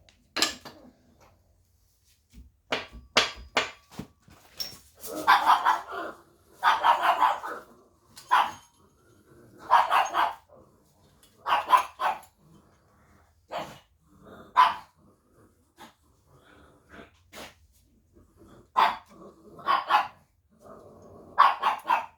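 A dog barking repeatedly, single barks and short runs of barks every second or two, with sharp knocks and clinks in between.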